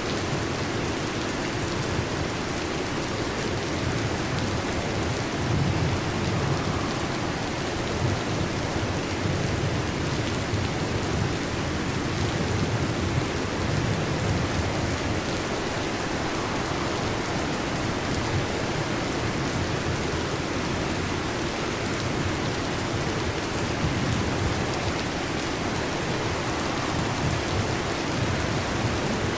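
Heavy rain drumming steadily on a metal roof, with low rolling rumbles of thunder swelling and fading several times.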